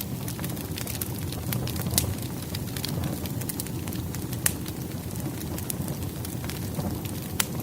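Firewood burning in a fireplace: a steady low rumble of flames under frequent sharp crackles and pops, with a few louder pops about two seconds in, past the middle and near the end.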